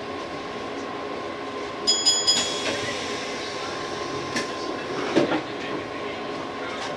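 A 185-series electric train running along the track, heard from its driver's cab: a steady running noise with a constant hum. A brief burst of high beeping sounds about two seconds in, and a couple of knocks from the wheels about five seconds in.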